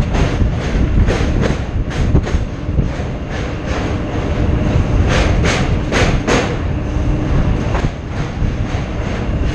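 Local electric train running at speed, its wheels clattering over rail joints in a steady rhythm with a run of louder clacks about five to six seconds in, under heavy wind buffeting on a microphone mounted on the coach's side.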